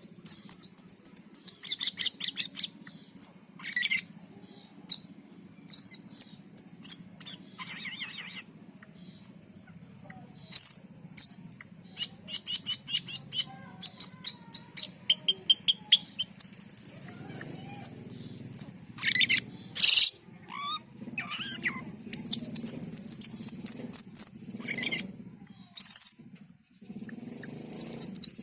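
A cucak keling singing energetically: a fast, varied run of sharp chirps, rapid rattling trills and high whistled notes, with hardly a pause, over a faint low hum.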